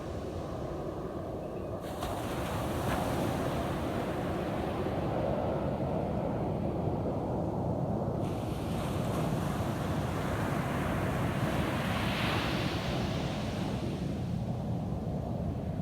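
Ocean surf on a beach: a wave breaks with a sudden hiss about two seconds in, and another builds, peaks and washes out in the second half, over a steady low rumble of wind on the microphone.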